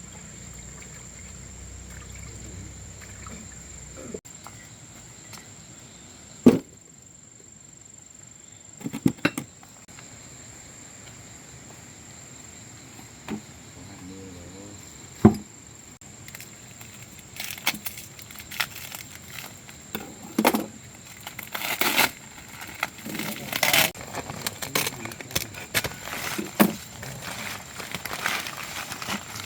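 Irregular sharp knocks and clinks, a few widely spaced at first and coming thick and fast in the second half, over a steady high-pitched whine.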